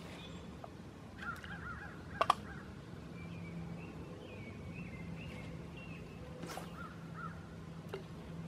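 Outdoor birds calling: short harsh calls about a second in and again near the end, with a thin warbling song in between, over a faint steady low hum. Two sharp clicks a little after two seconds are the loudest sound.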